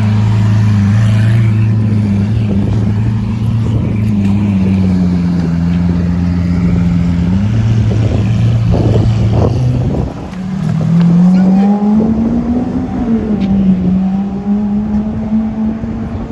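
Lamborghini Aventador SV's V12, fitted with a non-stock exhaust, idling with a deep steady drone. A few sharp exhaust crackles come around nine seconds in, then the engine note climbs to its loudest and falls back again.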